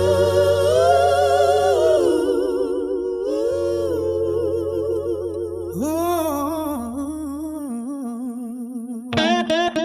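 Wordless AI-generated vocal humming a slow blues melody with wide vibrato over a held low bass tone. About nine seconds in, a picked guitar line comes in with quick repeated notes.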